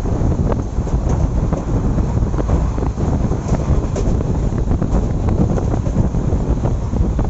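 Wind buffeting the microphone over the steady low rumble of a passenger train running at speed, with scattered short clicks of wheels on rail.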